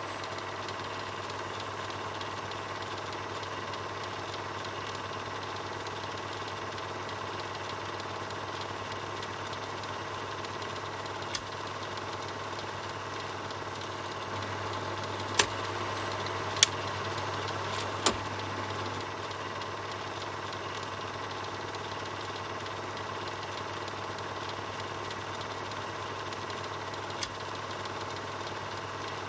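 Film projector running steadily, a constant mechanical whir with a low hum. A few sharp clicks or pops cut through it, three close together near the middle.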